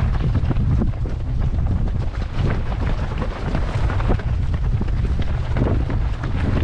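Strong wind buffeting the microphone, a heavy low rumble that surges and gusts unevenly.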